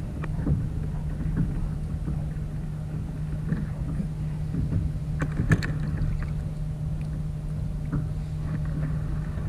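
Water rushing and slapping against an anchored kayak's hull in a strong tidal current, over a steady low hum. Scattered light knocks come through, the loudest about five and a half seconds in.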